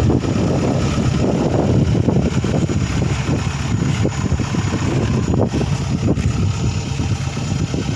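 Engine of a rice harvesting machine running steadily, with a constant low hum and noisy mechanical texture.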